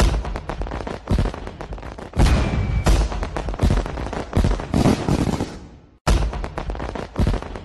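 Fireworks sound effect: a rapid run of bangs and crackles with a short whistle a little after two seconds in, fading out and breaking off about six seconds in, then starting over as the same loop.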